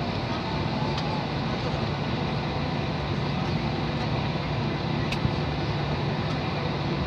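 Steady rumble of a Boeing 737-800's CFM56-7B jet engines and airflow, heard from inside the passenger cabin.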